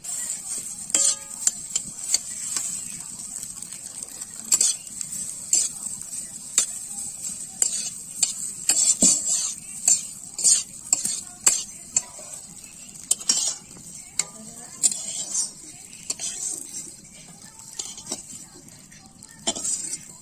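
Food pieces frying in hot oil in a wok, a steady sizzle, while a metal spatula stirs them, scraping and clinking against the pan in irregular strokes.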